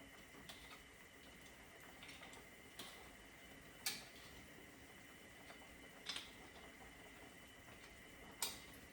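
Near silence, broken by about six short, light clicks, the loudest about four seconds in and just before the end, over a faint steady high hum.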